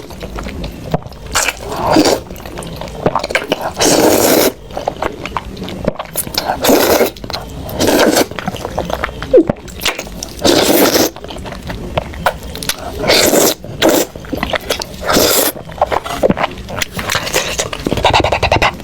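Close-miked eating of spicy instant noodles: slurps and wet chewing, with a loud slurp every second or two and smaller mouth clicks between them.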